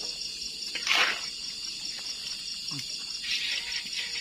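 Steady chorus of night insects trilling high. About a second in there is a brief louder noisy clatter, and another softer rustle comes later.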